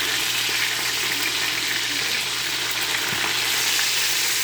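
Hot Cheetos-coated chicken pieces frying in hot oil: a steady, dense sizzle.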